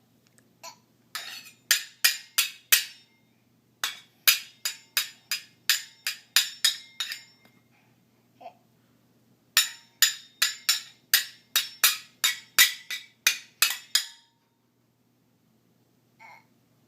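A small metal pan and lid banged together by a baby in three runs of quick ringing clanks, about three a second, with short pauses between runs.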